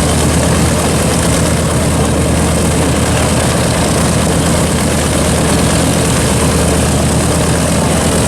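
Radial piston engines of a World War II bomber idling steadily on the ground, a constant low drone with no change in speed.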